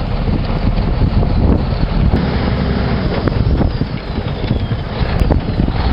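Low, steady rumble of a heavy engine, with wind buffeting the microphone.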